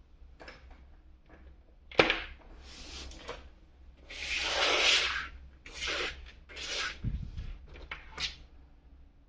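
Hands handling a boxed action figure and its packaging: a sharp click about two seconds in, then several short rustling, rubbing strokes.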